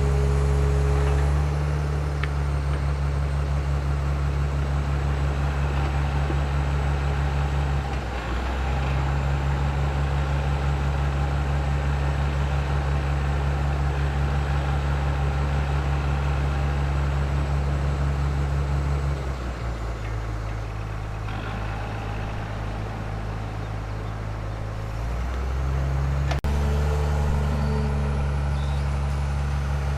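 Excavator's diesel engine running steadily under work. It drops back for several seconds past the middle, then picks up again.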